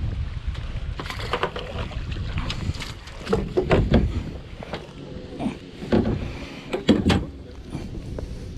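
Wind rumbling on the microphone, with several short knocks about halfway through and again near the end.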